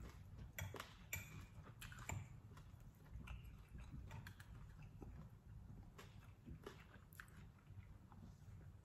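Faint chewing and eating sounds from a person eating fried fish, with scattered soft clicks as the meat is picked from the bone with a fork and fingers.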